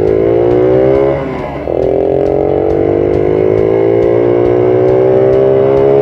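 Honda Monkey's bored-up 75cc single-cylinder engine revving, its pitch climbing slowly. It falls back about a second in, then climbs slowly again for several seconds.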